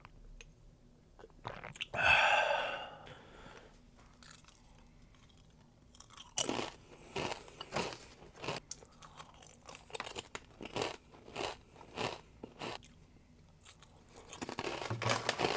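Someone chewing crunchy food close to the microphone, with a crisp crunch about one and a half times a second from about six seconds in and a denser flurry near the end. About two seconds in there is a brief, louder noise lasting about a second.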